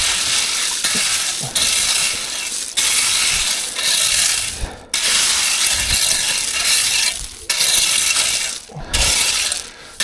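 Gravel and stones being scraped and spread with a hand tool, in about seven gritty strokes of roughly a second each with short pauses between, the stones clinking.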